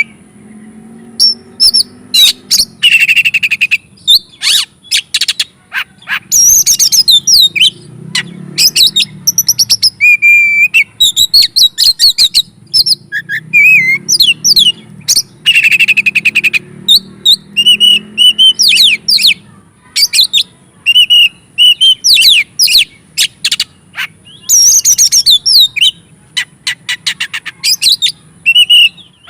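Oriental magpie-robin (kacer) singing loudly in the excited, non-stop 'ngobra' style. Its phrases of one to two seconds mix clear whistles, fast ticking rattles and high sweeping notes, with short gaps between them.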